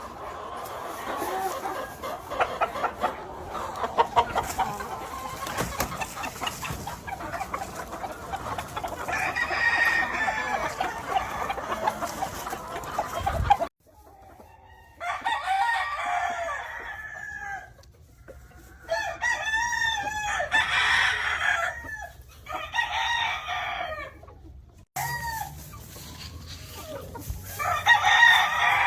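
Gamefowl roosters crowing again and again over a dense clatter of clucking, the crows overlapping in the first half. The sound cuts off abruptly twice, and after that single long crows stand out one after another.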